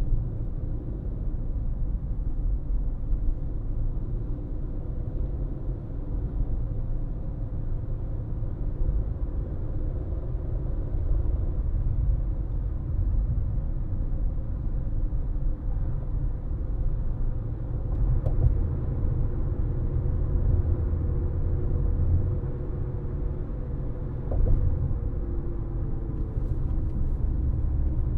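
Car driving along, with a steady low rumble of road and engine noise and two faint knocks partway through.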